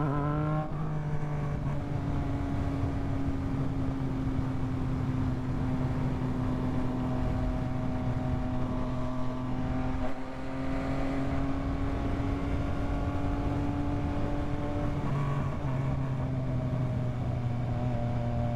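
Yamaha MT-09 three-cylinder motorcycle engine running at steady cruising revs while being ridden, with wind rush over it. The engine pitch climbs at the start, dips about ten seconds in, and settles slightly lower from about fifteen seconds.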